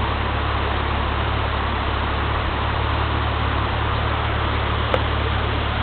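Waterfall and river water rushing in a steady, even noise, with a single brief click near the end.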